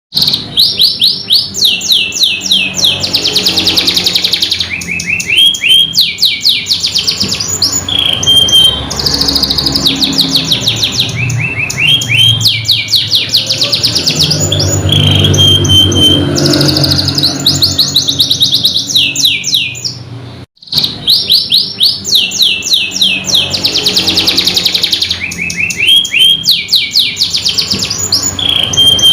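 Domestic canary singing loud, rapid rolling trills and quick sweeping notes in a continuous song. It cuts out briefly about two-thirds of the way through, then carries on.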